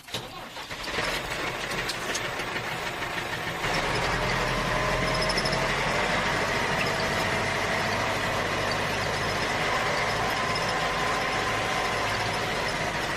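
A steady engine-like running sound with a thin whine, starting abruptly after a silent cut, rising over the first few seconds and then holding at an even level.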